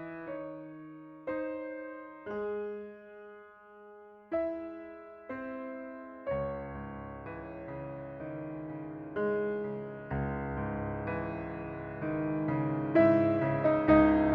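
Gentle background piano music: slow single notes that ring and fade, becoming fuller with more notes and a steady accompaniment about six seconds in.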